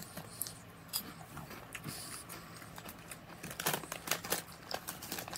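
A person biting into and chewing a crunchy, airy puffed onion-ring snack, with light crinkling of the snack bag in hand. The crunches come scattered, thickest about three and a half to four and a half seconds in.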